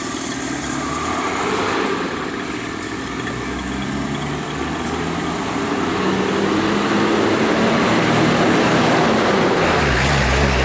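A 50cc mini motocross bike's engine running and revving while ridden. It grows louder from about halfway through, and near the end the pitch drops to a lower steady tone as it eases off.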